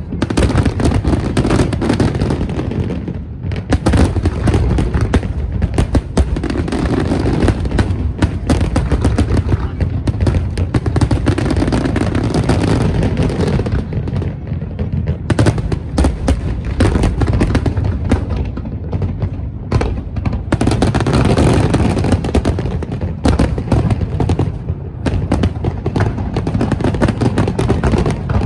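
Fireworks display: a dense, continuous barrage of bangs and booms, with no pauses between them.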